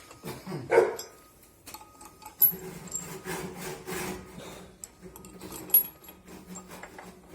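Hands and tools working on washing-machine parts: a few sharp knocks with scraping and rubbing between them, loudest about a second in and twice more later.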